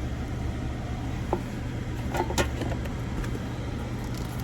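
Car engine idling, heard from inside the cabin as a steady low hum, with a couple of small clicks, about a second and a half in and again near the middle.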